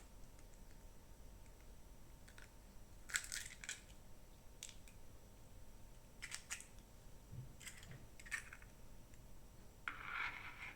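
Light, sharp clicks and taps of small hard objects, kitchen utensils or containers being handled, about seven of them in pairs and singles, then a short rustle near the end.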